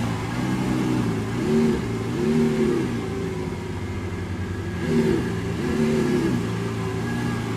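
Car engine revving over and over, its pitch swelling up and falling back several times.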